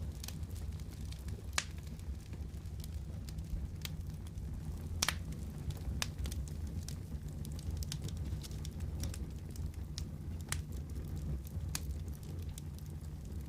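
Wood fire in a fireplace crackling, with irregular sharp pops and snaps over a steady low rumble. Two pops stand out, about one and a half seconds in and about five seconds in.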